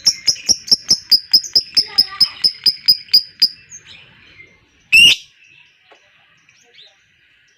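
Lovebird in its long, fast chattering song (ngekek): a rapid string of sharp, high notes, about six a second, for three and a half seconds. About five seconds in comes a single loud shriek.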